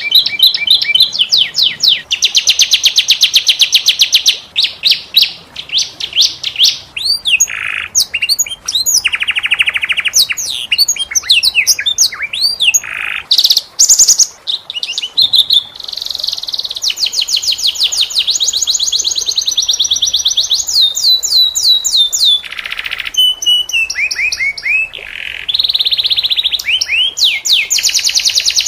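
Domestic canary singing a long continuous song of rapid rolling trills and fast repeated notes, broken by a few short buzzy passages.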